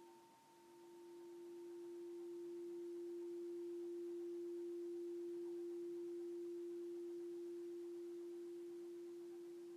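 Alchemy crystal singing bowl sounding one pure, steady tone that dips almost away just after the start, swells back over a few seconds, then slowly fades.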